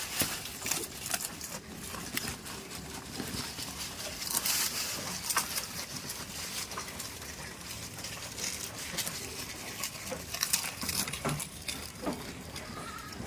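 Goats moving about: scattered clicks, rustling and light pattering steps.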